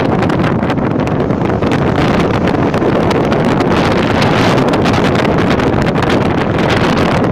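Strong wind blowing over the microphone on a sailing yacht in a storm: a loud, steady rush of noise with a heavy low rumble.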